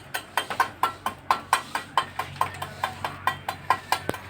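Rapid, evenly repeated sharp taps, about five a second, each with a short ringing note: a hand tool striking hard building material.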